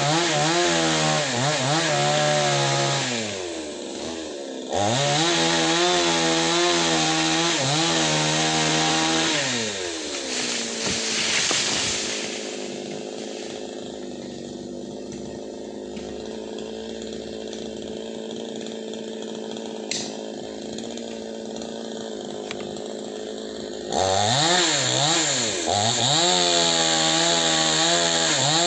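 Two-stroke chainsaw running at high revs cutting tree branches, its pitch dipping and recovering as it loads in the wood. About ten seconds in it winds down to a steady idle for roughly twelve seconds, with one sharp click partway through, then revs up hard again near the end.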